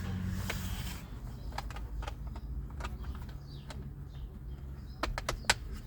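Scattered light clicks and knocks of plastic steering-column covers being fitted back into place, with a few sharper clicks near the end. A low steady hum runs underneath.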